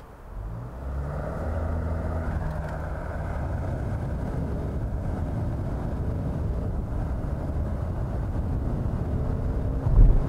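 2020 Kia Sorento's 2.2-litre four-cylinder diesel accelerating hard from a standstill, heard inside the cabin, its engine note climbing with the revs through the eight-speed automatic's gears. A brief low thump near the end comes at an upshift.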